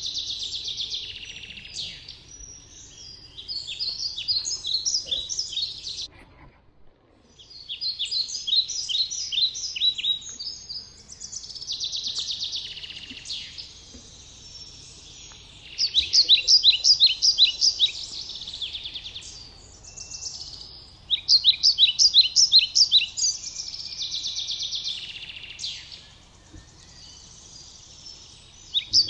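Songbirds singing: phrase after phrase of quick, high repeated notes, each a second or two long with short pauses between, over a faint low background rumble. The sound drops away briefly about six and a half seconds in.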